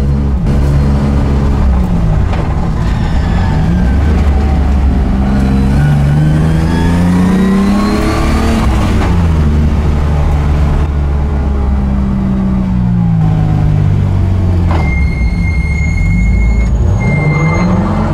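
Drift car's engine heard from inside the cabin, its revs repeatedly rising and falling as it is driven through the corners. Near the end a steady high beep sounds twice.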